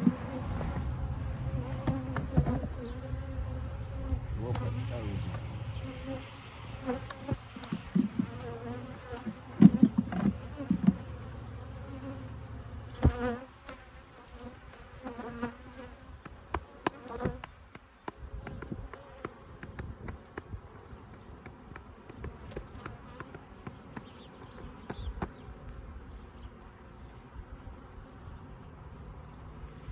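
Honeybees buzzing steadily around an open hive, with occasional knocks as the hive frames are handled.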